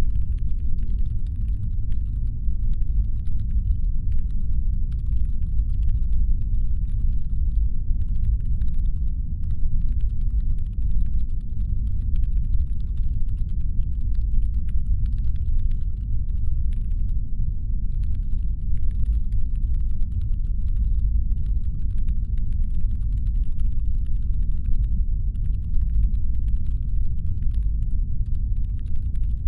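Steady, deep brown-noise rumble standing in for a spaceship's engine hum, with faint irregular light clicking scattered through it, stopping now and then.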